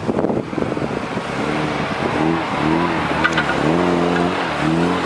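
Off-road 4x4's engine revving up and down in a run of short throttle bursts from about a second in, with wind rumbling on the microphone at the start.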